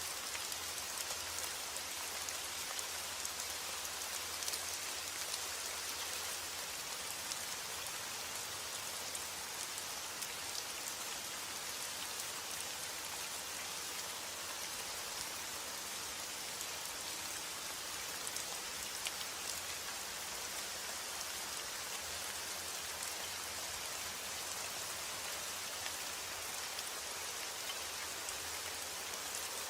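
Steady rain falling, an even hiss with scattered small drop ticks and no let-up.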